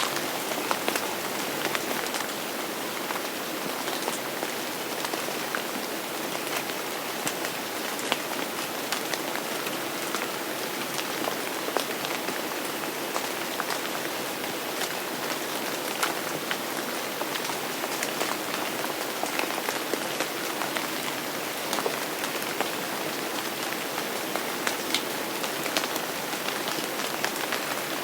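Steady rain falling on a hard surface, with many individual drops heard as small sharp taps over an even hiss.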